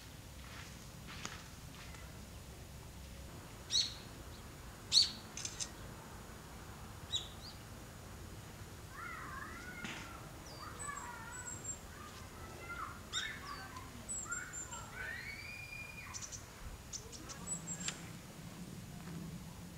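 Birds chirping and calling: a few sharp, high chirps in the first half, the loudest about five seconds in, then a run of short, warbling up-and-down calls through the second half.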